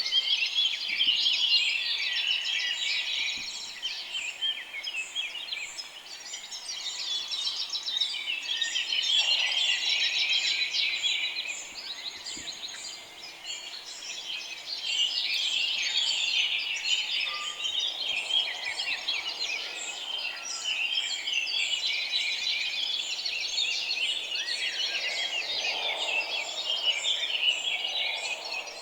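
A dense chorus of many small birds chirping and twittering at once, the mass of calls swelling and easing in waves.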